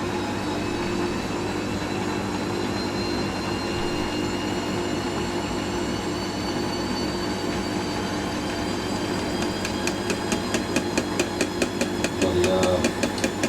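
Hoover washing machine's drum spinning up on a fast spin, running not very smooth, with a steady motor whine slowly rising in pitch. About ten seconds in, a rapid, even rattle of about four clicks a second joins in: the loose detergent drawer handle vibrating.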